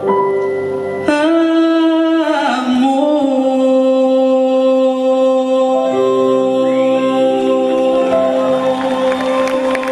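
Live music: a singer holds a long wordless note that slides down, over sustained instrumental chords.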